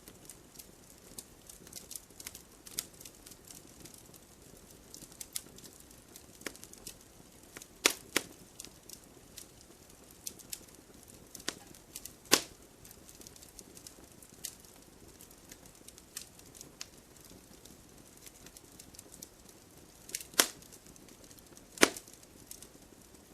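Campfire crackling: a steady run of small snaps and clicks over a faint hiss, with four louder sharp pops spread through.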